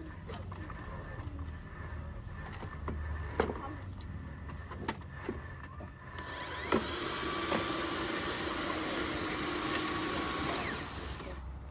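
Small electric motor and gears of a radio-controlled construction model whining steadily for about four seconds, starting about six seconds in, after a stretch of faint clicks and knocks from the model working.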